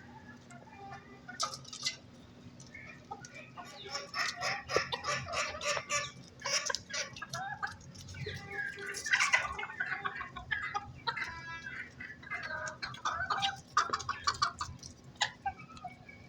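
Domestic chickens clucking: after a few quieter seconds, a busy run of short, quick clucks and cackles.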